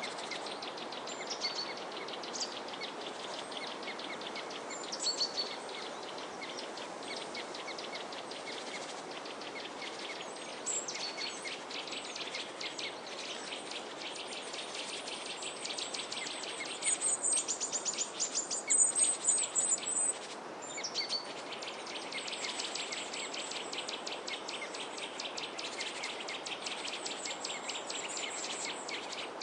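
Small birds chirping and twittering in a dense chorus of rapid high chirps over a steady background hiss. A louder run of high, fast trills comes a little past the middle.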